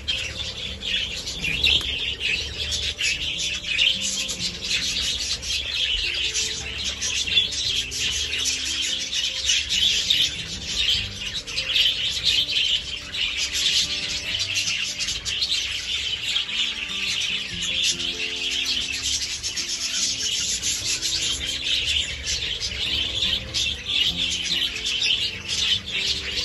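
A flock of budgerigars chattering and chirping continuously, many birds at once, with quiet background music underneath.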